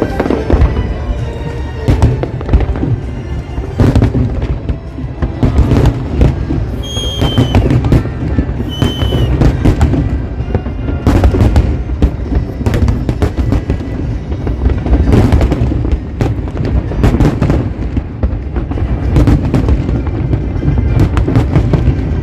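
Aerial fireworks going off in quick succession: a dense run of loud bangs and booms, with two short whistling shells about a third of the way in. Show music plays underneath.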